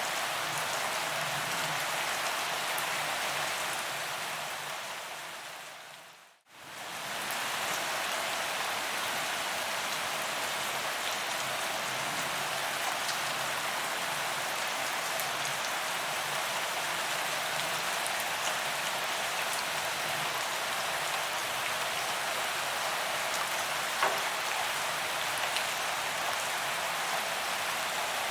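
Steady rain falling on a paved sidewalk, an even hiss of drops hitting the ground. About six seconds in it fades briefly to silence and back up again, and one louder drop stands out about three-quarters of the way through.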